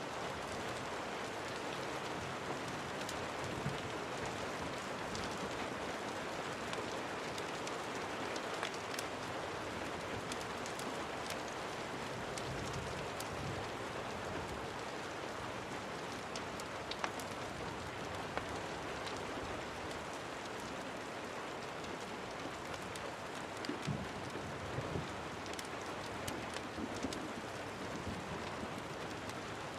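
Steady rain, with the scattered sharp crackles and low pops of a wood fire burning.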